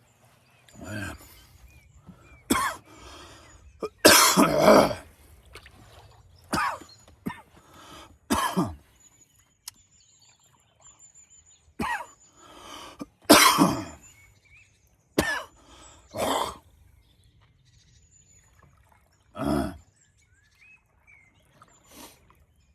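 A man coughing in repeated harsh fits and clearing his throat, choking on cake crumbs he has breathed in. The hardest coughs come twice, a few seconds in and again about halfway through.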